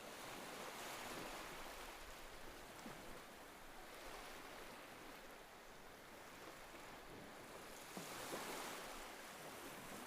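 Faint ocean surf washing ashore, swelling about a second in and again about eight seconds in.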